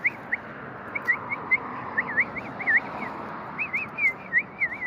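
A person whistling a string of short, warbling notes that glide up and down, over a steady background hiss.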